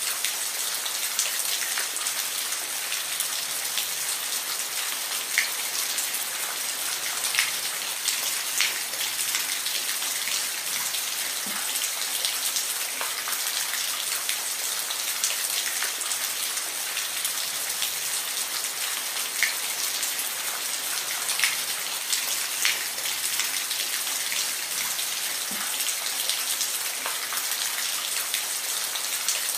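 Steady rain falling, a dense even hiss with scattered louder individual drops ticking on a hard surface.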